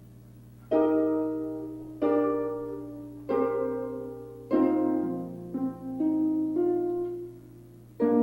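Instrumental music: slow chords plucked or struck and left to ring and fade, one about every second and a bit, over a steady low hum.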